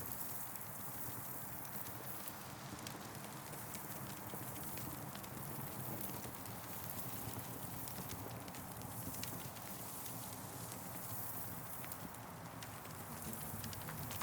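Campfire crackling: many small pops and snaps scattered over a steady soft hiss.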